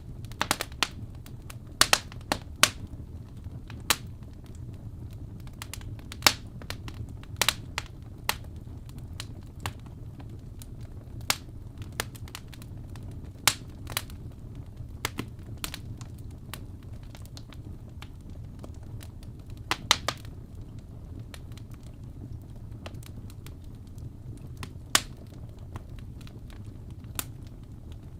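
Fireplace crackling: irregular sharp pops and snaps, some in quick pairs, over a steady low rumble of the fire.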